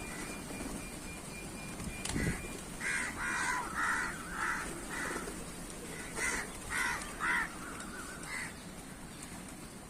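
Crows cawing, a run of about ten short harsh caws in quick succession starting a couple of seconds in. A sharp click comes just before the first caw.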